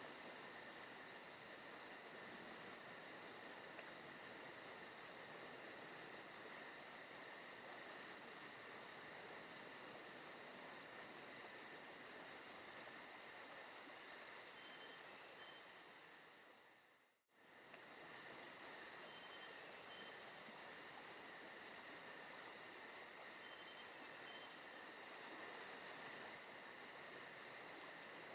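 Forest ambience recording of insects chirping steadily at low volume. It fades out to near silence and straight back in about seventeen seconds in, like a loop point in the track.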